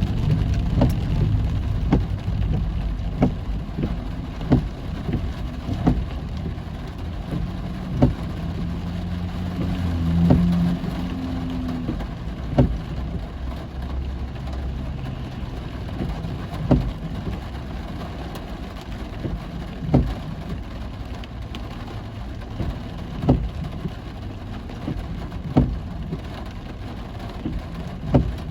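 Heavy rain on a moving car over a steady low road and engine rumble, with sharp knocks every few seconds.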